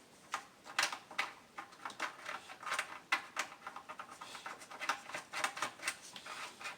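Irregular small clicks and taps of a nut being put on and fastened down on an engine bracket by hand.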